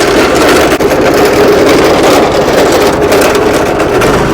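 A motor vehicle engine running loud and steady, close up.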